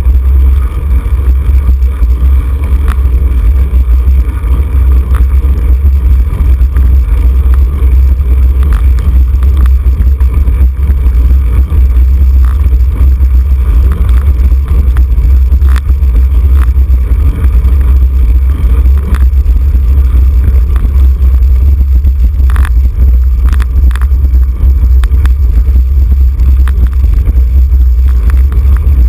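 Loud, steady wind rumble on the microphone of a camera riding along on a racing bicycle, with a few sharp clicks and rattles about three-quarters of the way through.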